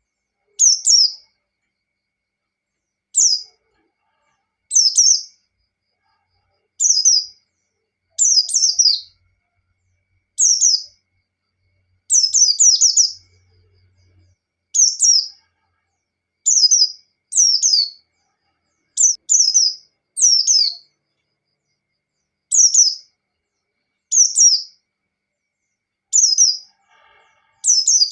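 White-eye (pleci) singing in the "ngalas" style: short, high chirping phrases that sweep downward, one every one to two seconds, with silence between them.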